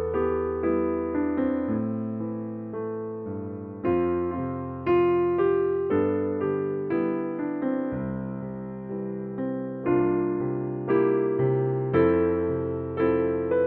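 Slow, gentle piano music: single notes and chords struck about every half second, each fading before the next.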